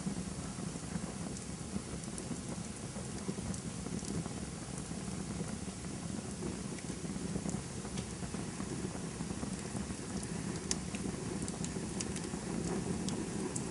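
Campfire burning: a steady low rushing of the flames with scattered sharp crackles and pops from the burning wood, which come more often about ten seconds in.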